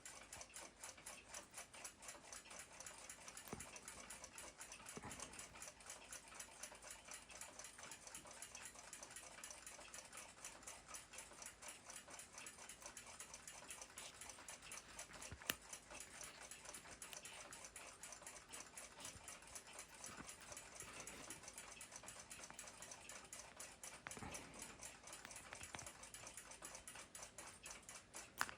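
Faint, rapid, even ticking of a running clock, with one sharp click about halfway through.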